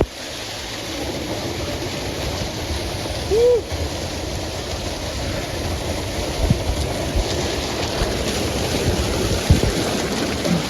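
Waterfall pouring into a swimming pool, a steady rushing of water. About three and a half seconds in there is one short call that rises and falls in pitch, and a few soft low knocks.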